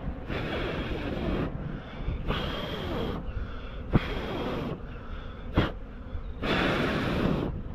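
Four long, hard rushes of breath or blown air, about a second each, with two sharp knocks in between.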